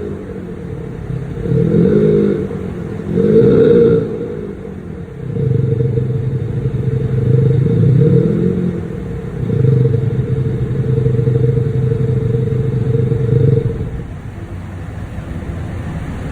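BMW X3 (G01) exhaust note produced through a Maxhaust active sound system: two short revs, then revs held for about eight seconds before dropping back near the end.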